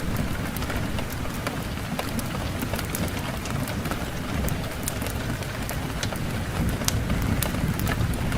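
Wood fire crackling in a fireplace: a steady low rumble with frequent, irregular sharp pops.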